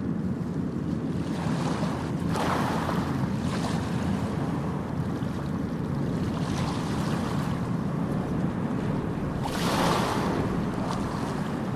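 Ocean surf: a steady low rumble of waves, with two louder hissing washes of breaking water, one about two seconds in and one near the end.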